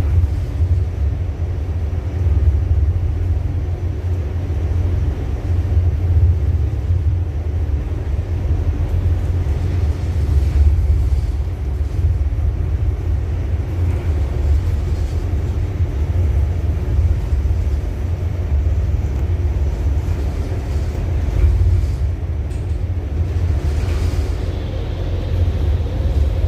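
Ship's engine running steadily, a deep continuous low drone with no change in pace.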